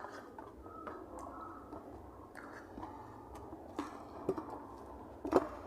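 Close-miked chewing and wet mouth sounds of a person eating a meal of rice and dal, with scattered small clicks and one sharper click near the end.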